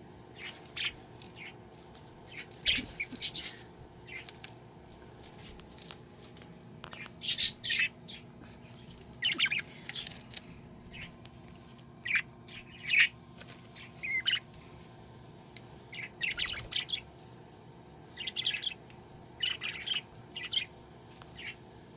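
Budgie chirping and squawking in short, scratchy calls that come in clusters every second or two, over a faint steady hum.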